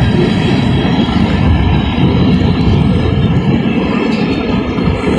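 CSX freight train of hopper cars rolling past a street grade crossing: the steady, low noise of wheels on rail, even in level throughout.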